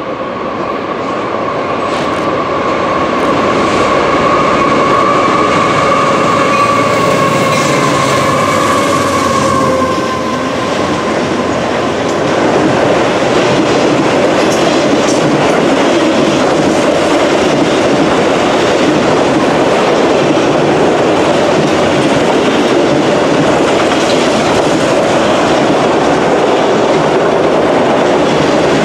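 Freight train passing close by: the locomotive's air horn holds a multi-note chord for about the first ten seconds, then the steady rumble and wheel clatter of autorack cars rolling past takes over.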